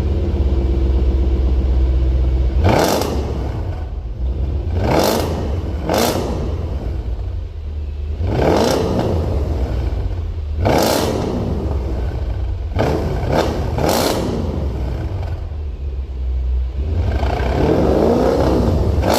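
Mercedes-Benz W221 S500 V8 through an aftermarket valved exhaust, idling and blipped about eight times, each rev rising and falling back to idle, with a longer rev near the end.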